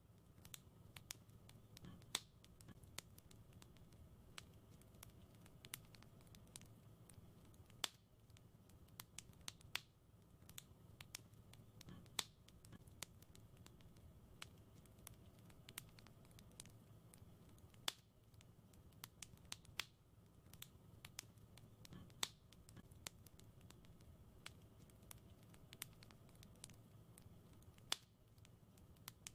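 Wood fire in a fireplace crackling: frequent, irregular sharp pops and snaps over a quiet, steady low rumble of the flames.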